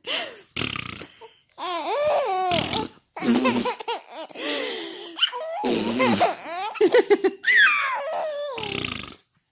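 A young child laughing in repeated bursts, mixed with playful voiced vocal sounds that rise and fall in pitch.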